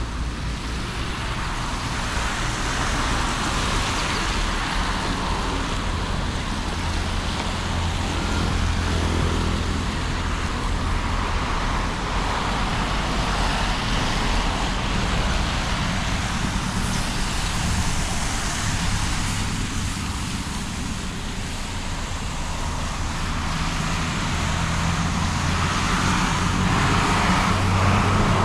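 Road traffic passing on a wet street: car and bus engines with steady tyre hiss. A heavier engine hum swells about eight seconds in and again near the end.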